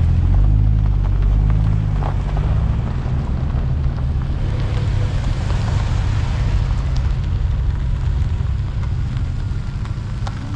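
Deep, steady car engine rumble with a noisy hiss over it, slowly growing quieter toward the end.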